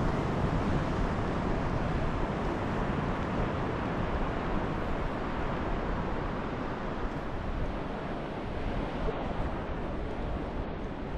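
Ocean surf washing onto a beach, a steady rush of noise that is a little louder in the first few seconds, with wind on the microphone.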